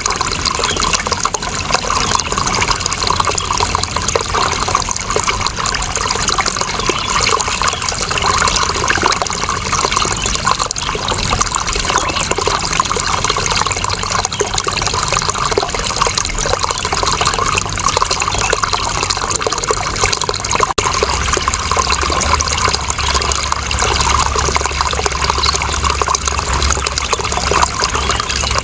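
Steady running water, a continuous rushing and trickling flow. There is a momentary break about three-quarters of the way through, after which a low rumble is stronger.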